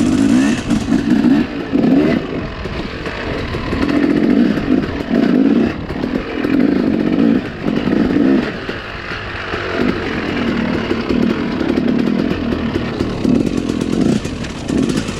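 Dirt bike engine revving up and easing off over and over, in repeated swells about every second or two.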